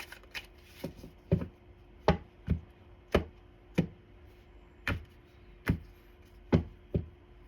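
About ten sharp knocks on a tabletop, spaced unevenly about half a second to a second apart, as a tarot deck is handled and tapped or set down on the table.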